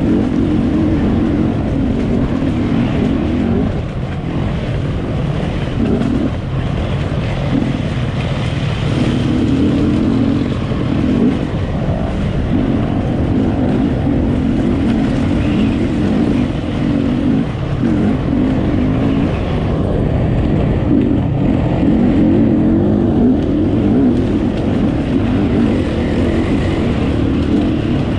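Enduro motorcycle engine running hard under changing throttle, its note dropping away briefly every few seconds and picking up again.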